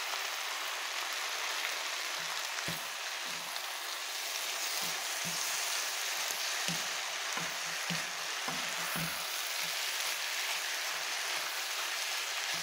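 Pasta, vegetables and sliced meat sizzling steadily in a nonstick wok while being stir-fried. A wooden spatula scrapes and knocks against the pan in a run of short strokes through the middle.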